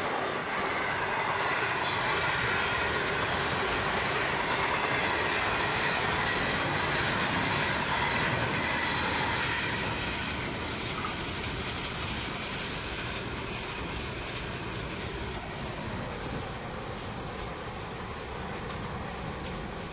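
Intermodal container wagons of a long freight train rolling over the rails. The rolling noise is steady at first, then fades and dulls from about halfway through as the last wagons draw away.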